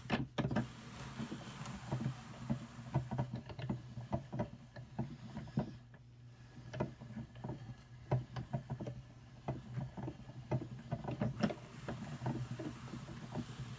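Hand-cranked drum carder with fine carding cloth turning as wool is carded, its teeth combing through the fibre with irregular light ticks and crackle over a steady low hum.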